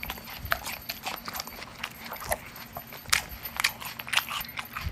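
Roasted corn chips being crunched and munched, a quick irregular run of crisp crackles.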